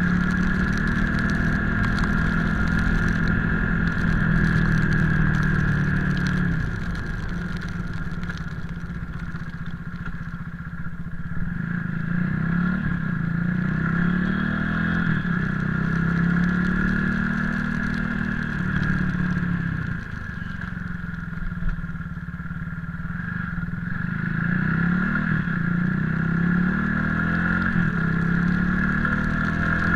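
Motorcycle engine running while riding, its revs rising and falling several times, with a dip in level and pitch about a third of the way in and again two-thirds of the way in.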